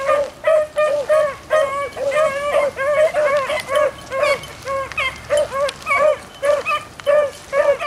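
Beagles barking on a rabbit's trail: a steady string of short, pitched barks, about two or three a second, with some calls overlapping as more than one hound gives voice in the chase.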